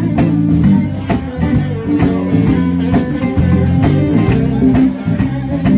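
Live band playing a bluesy rock groove: guitar over bass and drums with a steady beat.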